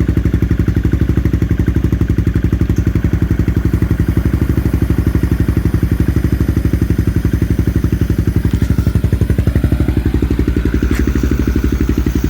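Yamaha Morphous 400 scooter's single-cylinder four-stroke engine idling steadily through a Yoshimura RS3 muffler, an even pulsing exhaust note.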